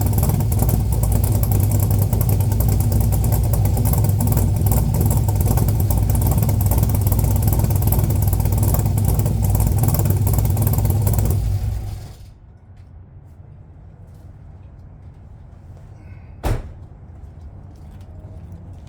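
Chrysler 440 big-block V8 idling steadily through dual exhaust with no catalytic converters, then shut off about twelve seconds in, the sound dying away within half a second. A single sharp knock follows a few seconds later.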